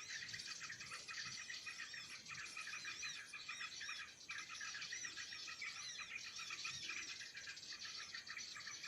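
Dense, continuous chattering of many small birds chirping at once: the noisy-flock ('ribut') lure recording played through an active speaker to draw sirtu birds down.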